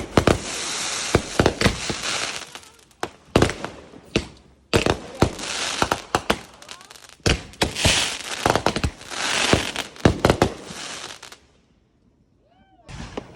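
Fireworks going off in several volleys: sharp bangs with dense crackling between them. They cut off suddenly about eleven seconds in, followed by a short silence.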